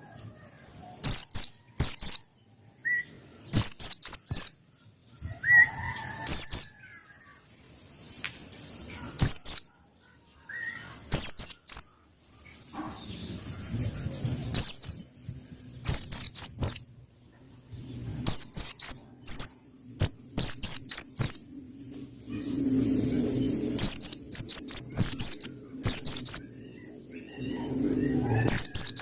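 Pleci Pacitan white-eye giving quick bursts of three or four high, sharp chirps, repeated every second or two with short gaps between.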